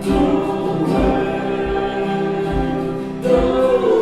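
Live worship band playing a Christian song, with voices holding sung notes over a steady kick-drum beat about twice a second.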